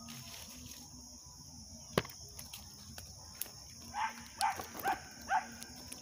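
Steady high chirring of insects at dusk, with a single sharp click about two seconds in. Near the end come four short animal calls about half a second apart, each falling in pitch.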